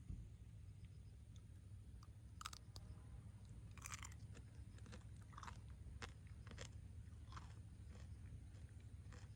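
Someone biting and chewing tanghulu, the hard candied sugar shell crunching. About ten crisp, irregular crunches over a low steady hum.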